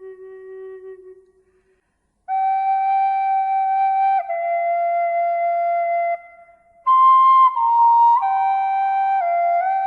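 Slow, calm melody of long held notes on a flute-like wind instrument, stepping down in pitch between notes. A low note fades out near the start, and there is a brief pause between phrases about two and six seconds in.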